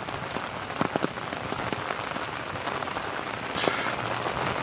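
Rain coming down hard: a steady hiss of rainfall with scattered sharp ticks of drops.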